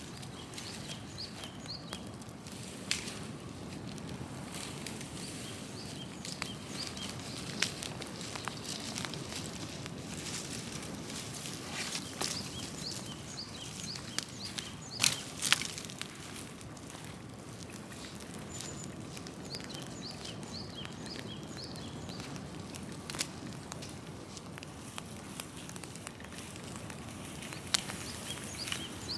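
Large open fire of felled trees and brush burning, with irregular crackles and sharp pops over steady flame noise; a cluster of louder pops comes about halfway through.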